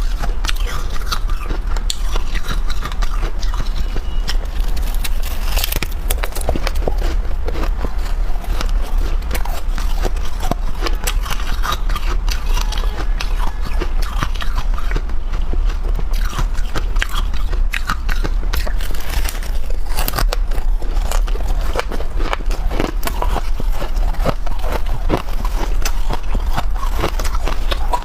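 Freezer frost being bitten and chewed close to the microphone: dense, irregular crunching and crackling with no break, over a steady low hum.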